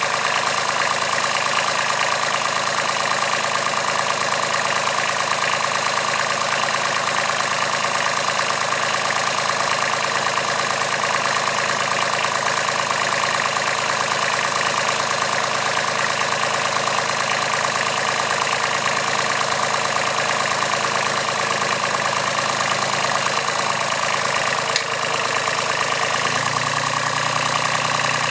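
Kubota B7001 tractor's D850 three-cylinder diesel engine running steadily, with a short click about 25 seconds in and a change in the engine's low note about a second later.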